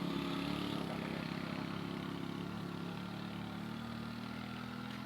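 A vehicle engine running steadily, its pitch sinking slowly.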